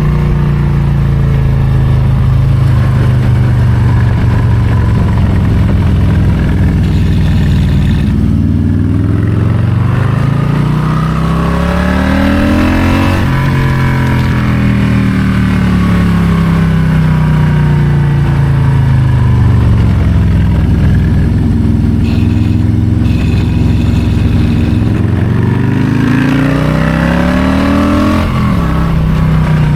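Harley-Davidson Low Rider ST's Milwaukee-Eight 117 V-twin engine pulling through a run of curves. It rises in pitch under throttle, falls back off throttle, runs steady for a few seconds, then climbs again and drops abruptly near the end.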